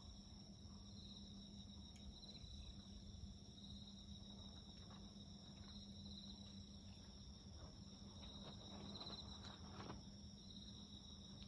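Crickets chirping faintly in repeated short trills over a steady high insect drone, with faint snaps of a wood campfire, a little denser near the end. A low steady hum runs underneath.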